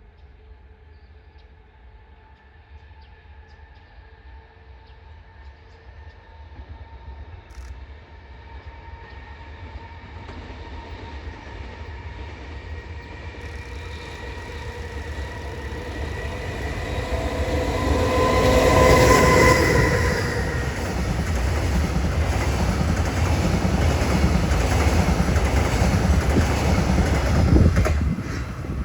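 EH500 electric locomotive hauling loaded long-rail flat wagons (chiki) approaching and passing. It is faint at first and grows steadily louder, peaking about two-thirds in with a whine of several steady tones as the locomotive goes by. Then comes a steady loud rumble and clatter of the wagon wheels, which drops off near the end.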